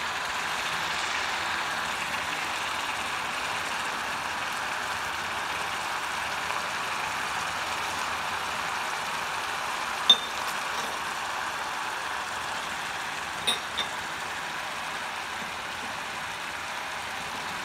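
Onions and curry leaves frying in oil in an iron kadai, giving a steady sizzle. A sharp tick about ten seconds in and two more close together a few seconds later.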